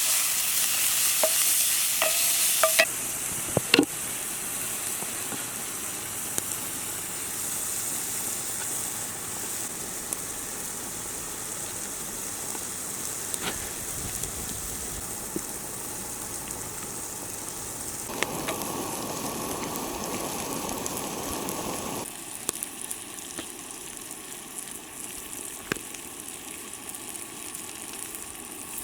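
Pig heart frying and sizzling in a cast iron skillet over a campfire, with scattered clicks and scrapes from stirring. The sizzle is louder for the first few seconds. A few seconds past the middle, a lower rushing noise joins in briefly.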